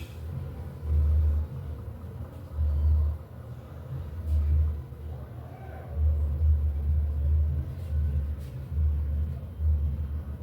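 Electrolux LED14 washing machine running: a low rumble that swells and drops back roughly every second or so.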